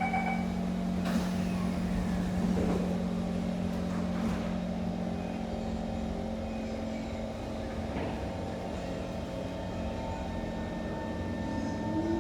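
Interior of a Kawasaki C151 metro train pulling away from the platform: a steady electrical hum and running noise. Near the end a rising traction-motor whine sets in as the train gathers speed.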